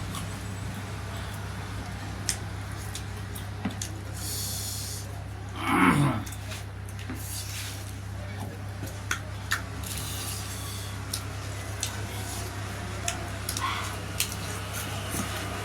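Eating sounds from a mukbang of chicken and dhido: scattered short clicks and smacks of chewing, with a steady low hum underneath. About six seconds in, a short, louder sound falls quickly in pitch.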